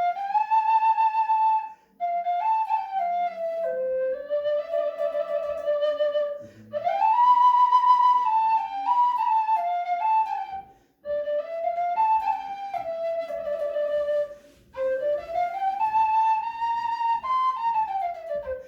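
Russian folk 'marsh flute' made from a dried hogweed stalk, played as a melody in short phrases with quick breaths between them; the notes step and slide up and down within a narrow range.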